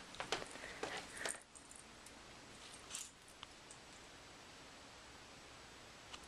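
A few faint clicks and light knocks in the first second and a half and once more about three seconds in, then quiet room tone.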